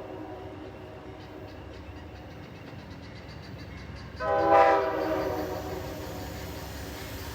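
Amtrak diesel locomotive's multi-note air horn sounding one short blast about four seconds in, over the rumble of the moving train. Before the blast, a rapid run of clicks of the wheels going over rail joints.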